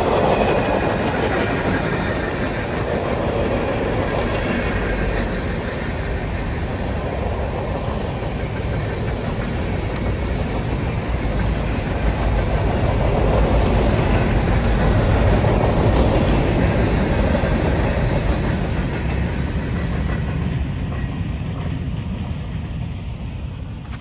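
Norfolk Southern freight train's cars rolling past steadily, the sound fading over the last few seconds as the train draws away.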